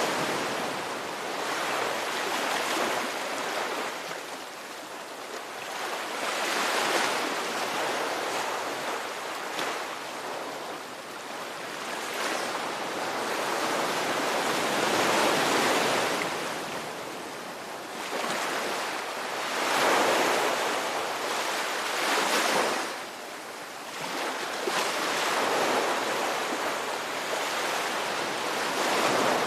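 Ocean waves breaking and washing on the shore in a continuous surf, swelling and ebbing every few seconds.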